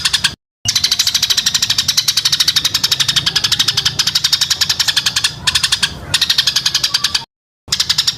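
Bird-song filler call for training a white-rumped shama: a high, fast rattling trill of about a dozen even pulses a second. It cuts out briefly just after the start and again near the end.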